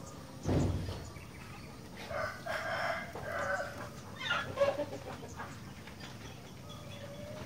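A rooster crowing, a drawn-out call broken into several parts over about three seconds, after a dull thump about half a second in.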